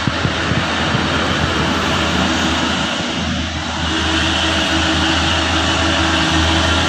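Heavy diesel truck engine running hard under load, steady, growing a little louder about four seconds in.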